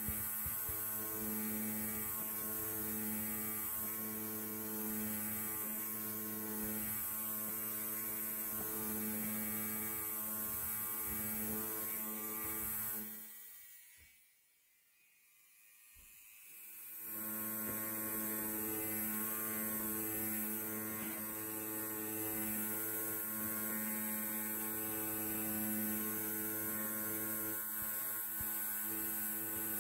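Electric hair clipper running with a steady buzz, which fades out about halfway through and fades back in a few seconds later.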